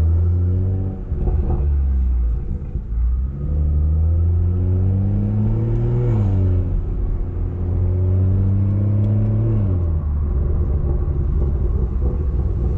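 BMW 340i's turbocharged 3.0-litre straight-six with a straight-piped exhaust pulling under acceleration. The engine note climbs steadily, drops suddenly about halfway through at a gear change, climbs again and falls once more near the end.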